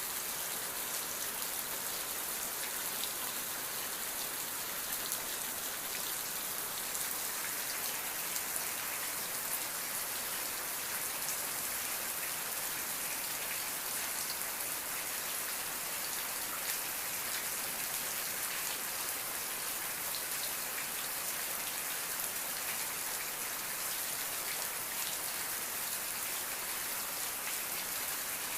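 Steady rain falling, an even hiss with the fine patter of many drops.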